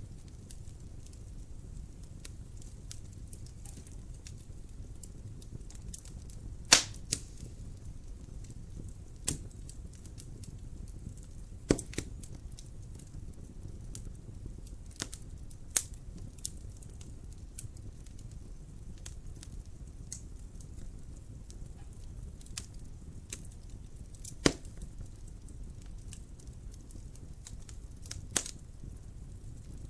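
Wood fire burning in a fireplace: a steady low rumble of the flames with scattered sharp crackles and pops, a few of them much louder than the rest.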